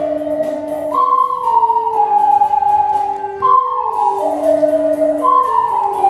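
Ocarina ensemble playing a slow melody in harmony, several ocarinas holding notes together; each phrase starts high and steps downward, about three phrases in a row.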